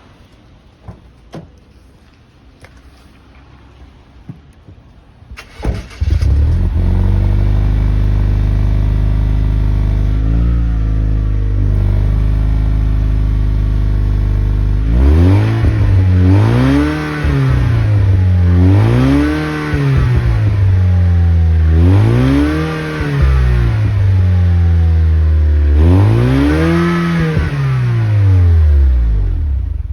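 Lexus RC Turbo's 2.0-litre turbocharged four-cylinder, breathing through an aftermarket exhaust, starts up about five seconds in and idles steadily. It is then revved four times, each rev rising and falling back to idle over about two seconds, and is switched off at the end.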